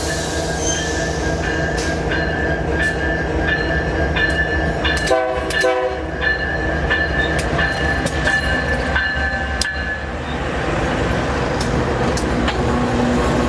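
Diesel freight train passing: a steady locomotive engine hum and rumble, with repeated wheel clicks over the rail joints and a brief tone about five seconds in.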